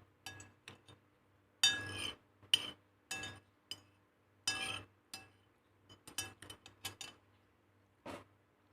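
Kitchenware clinking: a string of irregular sharp clinks of utensils against dishes, each with a brief ring, the loudest about two seconds in and the last near the end.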